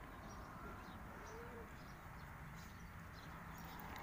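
Faint outdoor background with distant bird calls, including one short, low, arched call about a second and a half in.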